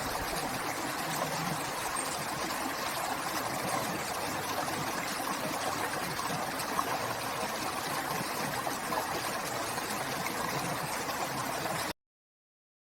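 River water flowing in a steady rush, which cuts off abruptly near the end.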